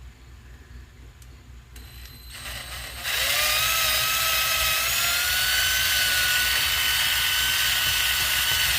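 Power drill boring a hole through a block of wood. The drill starts about two and a half seconds in, its whine rises briefly, then it runs steadily as the bit cuts through.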